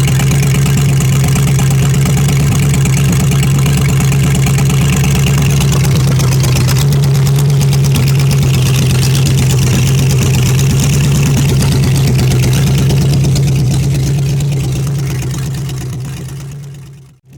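1955 Pontiac 287 "Strato Streak" V8 idling steadily on its first test run after a clean-out and tune-up. The sound fades out near the end.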